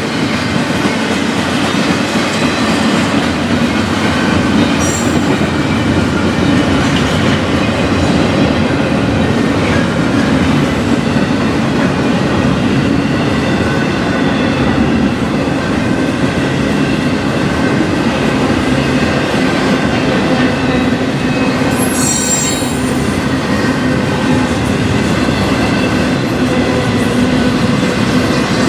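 Freight train cars rolling past steadily, a continuous rumble with faint wheel squeal over it, and two brief high screeches, one about five seconds in and one about twenty-two seconds in.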